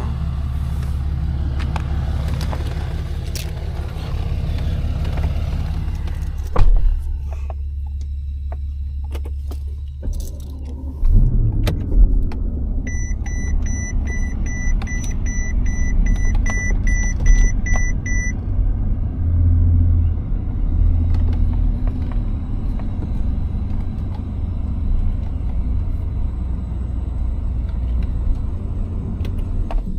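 Tow truck's engine running with road rumble heard from inside the cab; the sound changes and grows louder about eleven seconds in. A rapid run of high beeps sounds for about five seconds, starting about thirteen seconds in.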